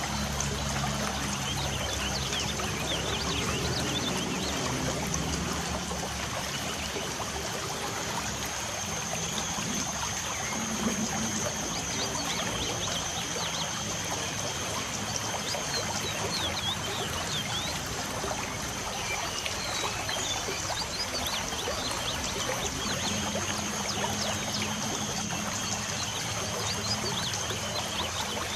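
Light rain falling steadily with water trickling, and birds chirping in short, quick calls throughout. A thin, steady high-pitched tone runs above it.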